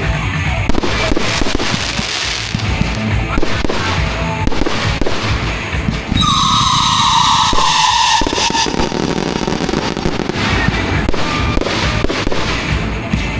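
Fireworks going off in rapid succession, a dense run of pops and crackles, with a loud whistle about six seconds in that falls in pitch over about two seconds. Music plays underneath.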